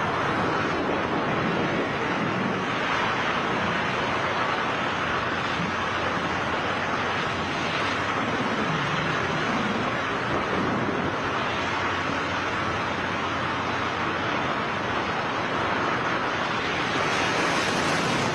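Steady rushing wind noise of skydivers in freefall: air blasting past the microphone at a constant level.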